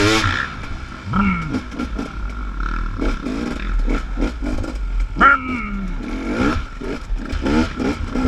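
Dirt bike engine ridden on a rough trail, the revs rising and falling again and again as the throttle is worked, with a sharp climb about five seconds in. Short knocks and rattles run through it.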